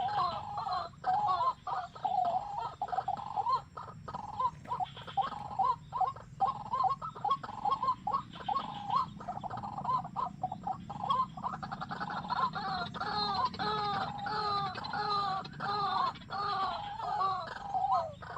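A bird calling in a rapid, continuous run of short swooping notes, several a second, growing stronger and fuller about twelve seconds in.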